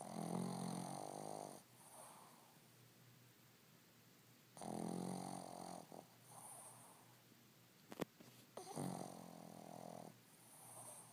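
Dog snoring in its sleep: three long snores about four seconds apart, each followed by a fainter breath. A sharp click comes just before the third snore.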